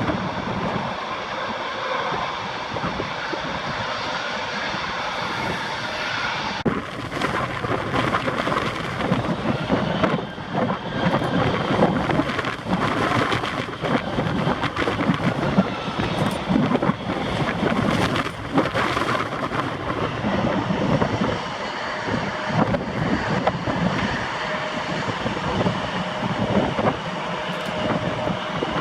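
Aircraft engine noise mixed with strong gusts of wind buffeting the microphone, which add rough, thunder-like rumbles and crackles.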